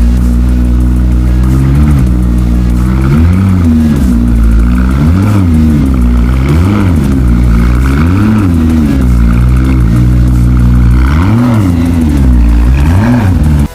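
Supercar engine revved again and again, rising and falling in pitch about every one and a half seconds, loud throughout.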